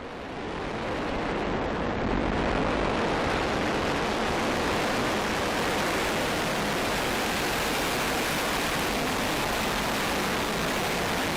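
Soyuz ST-B rocket engines at liftoff: a loud, steady rushing noise that swells over about the first two seconds, then holds.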